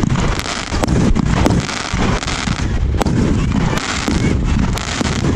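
Fireworks going off in a rapid, continuous barrage: overlapping deep booms of bursting aerial shells with crackle and sharp bangs in between, several every second.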